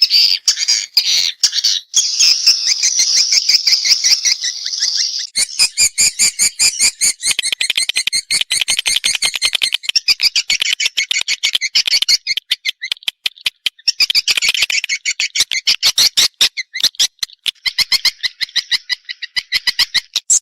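Swiftlet calls, a recorded 'respon' lure track of the kind played at swiftlet houses: a dense, buzzy twittering, which about five seconds in gives way to a fast run of many clicks a second, with bouts of twittering coming back over the clicks.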